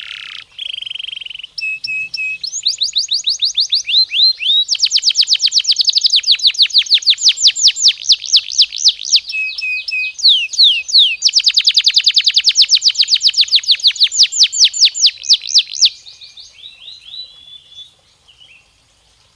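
Domestic canary singing: long rolls of fast, repeated falling whistle notes broken by a few short held notes, stopping about sixteen seconds in, then a few faint trailing notes.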